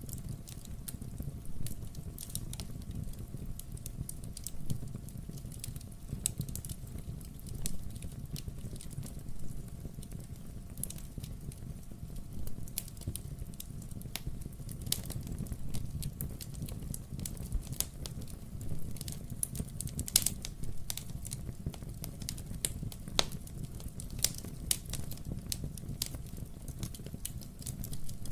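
Wood fire burning in a fireplace: steady irregular crackling with scattered sharp pops over a low steady rumble. The loudest pops come about 20 and 23 seconds in.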